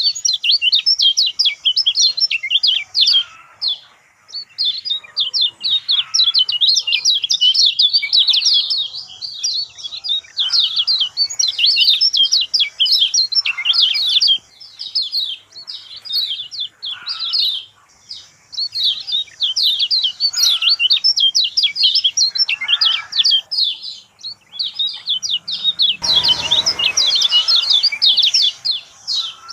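Kecial kuning, a small white-eye, singing a rapid, high, twittering song in long runs broken by short pauses every few seconds. Near the end there is a brief rustle or bump.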